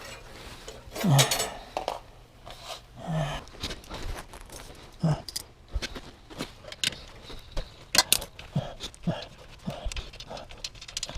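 Hand tools clinking and knocking on metal in repeated short, sharp clicks and taps while the punctured rear wheel of a Honda Super Cub is worked on, with a louder clatter about a second in.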